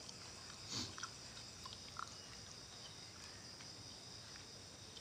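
Faint chewing while eating, with a few light clicks of a metal spoon against a glass bowl.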